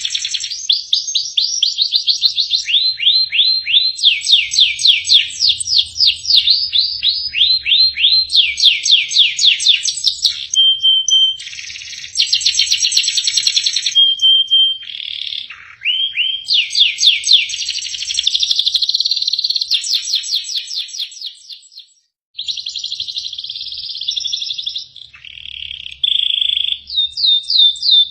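Domestic canary singing a long varied song: fast trills of repeated downward-sweeping notes alternate with short steady whistles and buzzy rolls. The song breaks off abruptly for a moment about two-thirds of the way through, then resumes.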